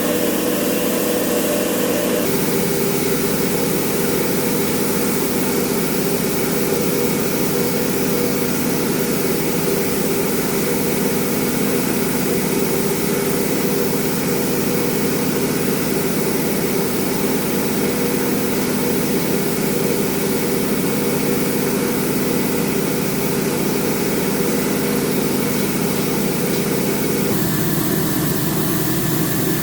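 A steady mechanical running sound with a pitched hum, changing abruptly in character about two seconds in and again near the end.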